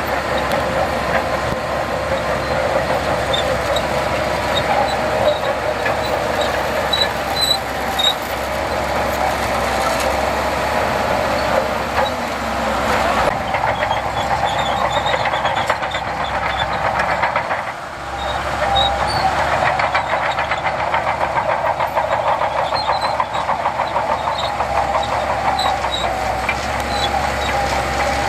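Heavy earthmoving machine's diesel engine running steadily, with a fast metallic clatter over it; the sound dips briefly about eighteen seconds in and then comes back.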